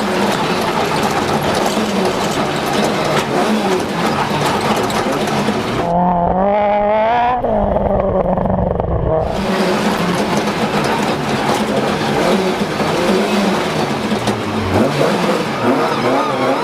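Ford Escort RS1800 rally car's Cosworth BDA four-cylinder engine revving hard, its pitch climbing and dropping through the gears, over a steady rush of noise. About six seconds in, the rush falls away for a few seconds and the engine's rising and falling note stands out alone.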